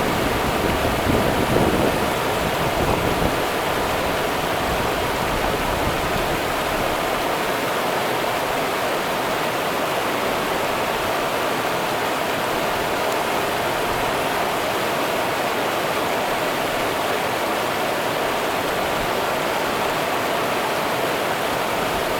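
The Rio Grande river's water running, a steady, even rush. Some uneven low rumbling comes through in the first three seconds, then settles.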